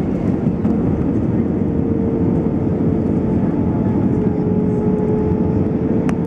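Airbus A320-214 cabin noise heard from a window seat near the wing: the CFM56 turbofan engines and airflow make a loud, steady rumble with a constant humming tone, and a fainter higher tone comes in for a second or two in the middle.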